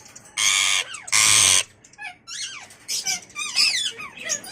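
Indian ringneck parakeets calling: two loud, harsh screeches in the first second and a half, then a run of quick chirps and whistles that rise and fall in pitch.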